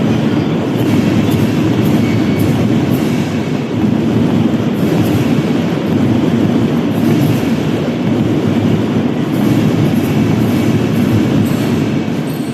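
Marching drum band playing loudly, heard as a dense, continuous roar of drums.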